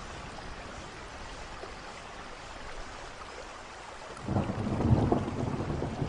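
Steady rain hissing, then about four seconds in a roll of thunder breaks in with a loud low rumble that keeps going.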